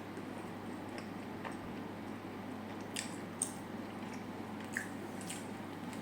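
Close-miked chewing of food: soft wet mouth sounds with scattered small clicks and a few sharper crackles in the second half, over a steady low background hum.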